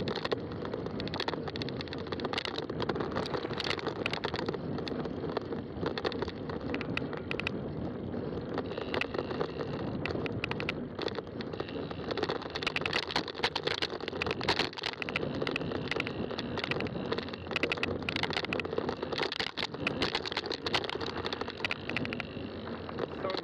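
Fat-tire mountain bike riding over a rough trail: a continuous rolling rumble from the tires, with frequent clicks and rattles from the bike.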